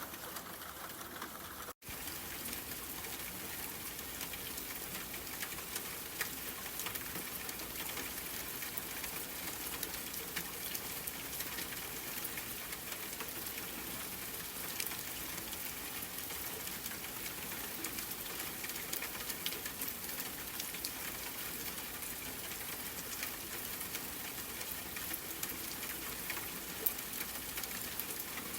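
Steady rain falling, an even hiss with many small drop ticks. The sound cuts out for an instant about two seconds in, then carries on unchanged.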